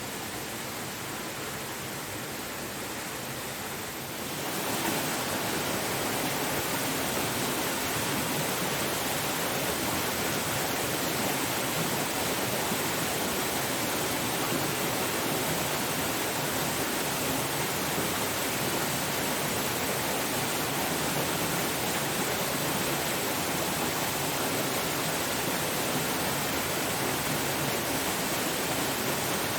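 Steady rushing of a waterfall, an even roar of falling water that steps up in loudness about four seconds in and then holds.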